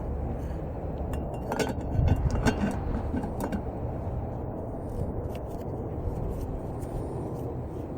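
Cookware clinking and knocking, a handful of sharp metal clicks over about two seconds starting about a second and a half in, over a steady low rumble.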